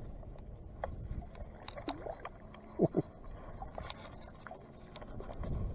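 Gusty wind rumbling on the microphone, with light water splashing and scattered small clicks, and two brief falling squeaks near the middle.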